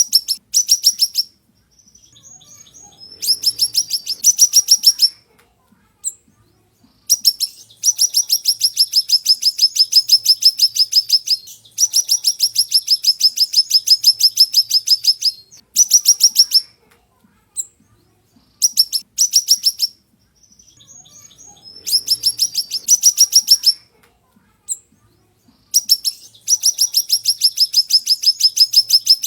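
Siri-siri songbird singing loud, rapid high-pitched trills of fast repeated notes, each run lasting one to four seconds. Short pauses and softer twittering chirps come between the runs.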